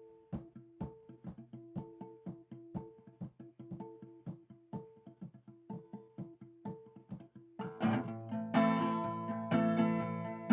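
Acoustic guitar playing an instrumental: a quiet, repeating fingerpicked pattern of single notes, then about three quarters of the way in it turns to louder strummed full chords.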